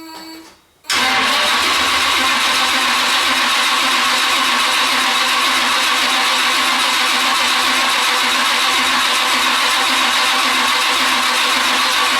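Oldsmobile 455 V8 turned over by its high-torque starter without catching, cranking steadily and fairly slowly. It cuts in suddenly about a second in.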